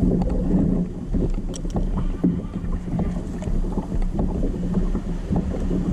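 Wind buffeting the microphone and water noise around a fishing kayak, with a steady low hum underneath and irregular low thumps.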